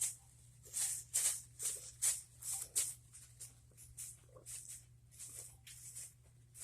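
Thin plastic bag crinkling in quick, irregular rustles as a cat tangled in it squirms.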